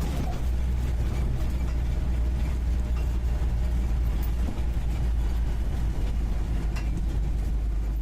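UAZ 469B's four-cylinder petrol engine running, heard from the passenger seat inside the cab: a deep steady drone with scattered knocks and rattles.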